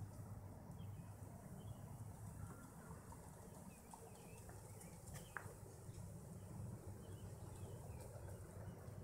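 Faint outdoor ambience: a low steady hum with small, scattered bird chirps throughout, and one short sharp click about five seconds in.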